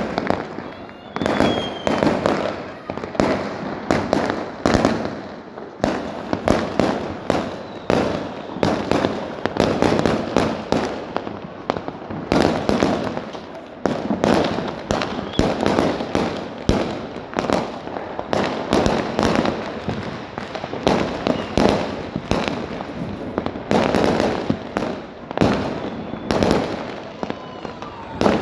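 Diwali firecrackers going off in a continuous, irregular barrage of bangs and cracks, many each second.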